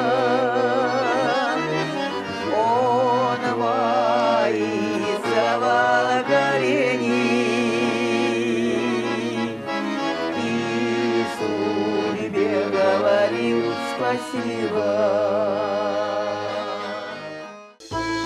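Garmon, the Russian button accordion, playing a slow folk-song melody with long held notes. The music breaks off for a moment near the end and a new tune starts.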